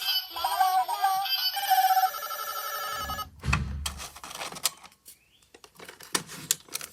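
Electronic tones: a wavering pitched tone, then a rapidly repeating ringing tone that stops about three seconds in, followed by a low thump and scattered clicks.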